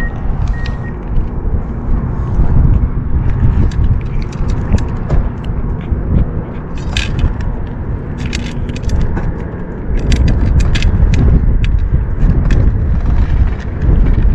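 Strong wind buffeting the microphone: a heavy, uneven rumble that grows stronger about ten seconds in, with scattered sharp clicks and scrapes over it.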